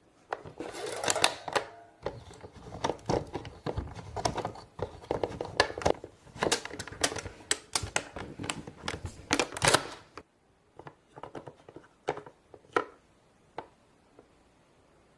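Plastic toy playset pieces and molds being handled, with rapid irregular clicks and taps for about ten seconds, then only a few scattered clicks.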